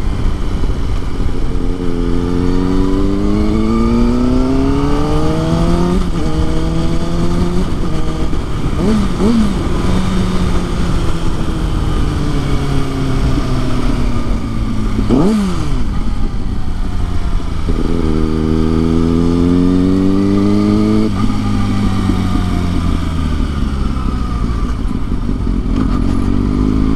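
Kawasaki ZX-6R's inline-four engine under way, pulling up through the revs with a break for a gear change, easing off and falling in pitch, then pulling up again. About halfway through there is one quick, sharp blip of the revs. Low wind rush runs underneath.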